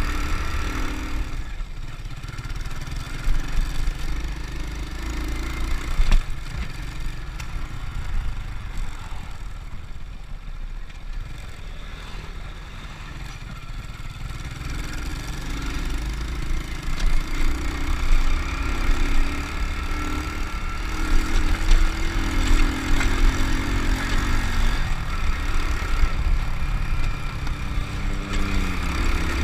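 Honda Win single-cylinder motorcycle engine running under way, with a heavy low rumble. The engine eases off and goes quieter about a third of the way in, then picks up again.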